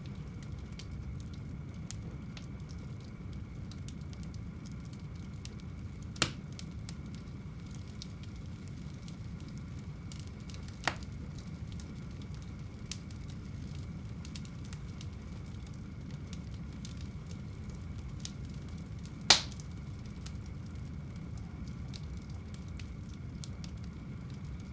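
Wood fire burning in a home fireplace: a steady low rush with faint crackling, and three sharp pops about six, eleven and nineteen seconds in, the last the loudest.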